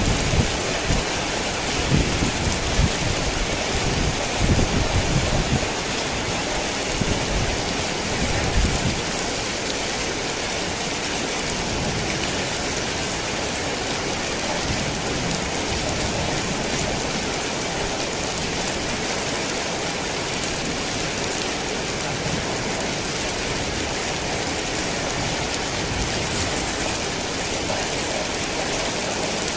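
Heavy rain falling steadily, with low rumbles of thunder in the first several seconds that die away about a third of the way in.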